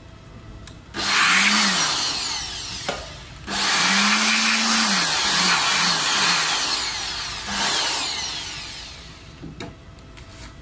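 A loud hand-held power tool running in two bursts: about two seconds starting a second in, then about six seconds from three and a half seconds in, a rushing hiss with a low motor hum that rises and falls in pitch.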